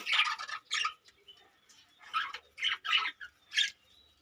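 Budgies giving short, scattered high chirps, about half a dozen over four seconds.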